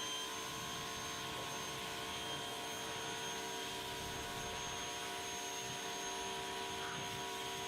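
Steady machine hum with several constant whining tones over an even noise haze, unchanging throughout.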